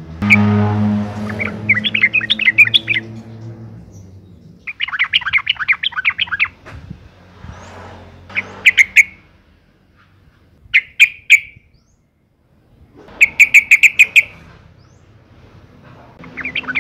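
Yellow-vented bulbul (trucukan) calling, given as a female's call: short bursts of rapid, bubbly chattering notes, about six bursts with pauses between them.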